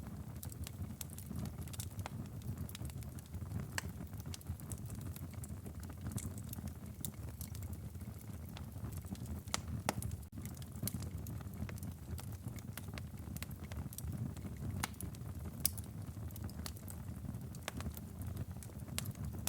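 Wood fire crackling in a fireplace: frequent irregular pops and snaps, a few of them louder, over a steady low rumble of the flames.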